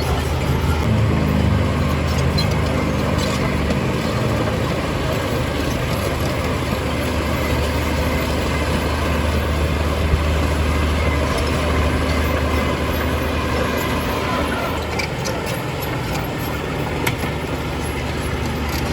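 Heavy diesel engine of earthmoving machinery running steadily, its pitch rising briefly in the first few seconds.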